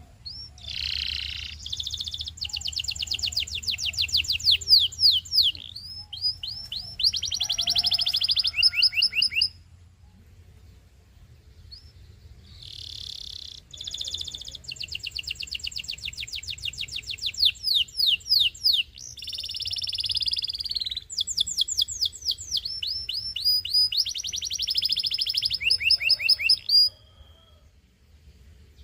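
Domestic canary singing: two long song phrases of fast, high trills and rolls, separated by a pause of about three seconds.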